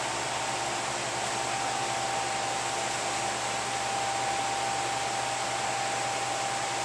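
Steady hiss of rushing air with a faint steady whistle, from an air spray gun spraying primer-sealer.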